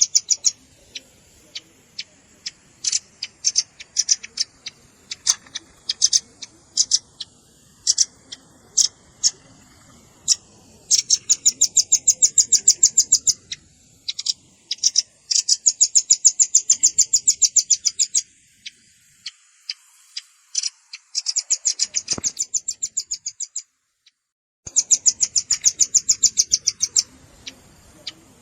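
Velvet-fronted nuthatch calls: sharp, high chips, some single and scattered, others run together into fast trills lasting two to three seconds.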